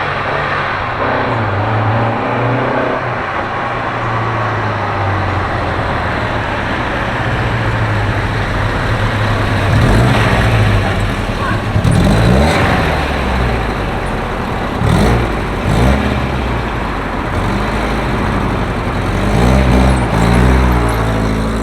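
Car engines running, with the revs rising and falling several times: blips about halfway through and again near the end.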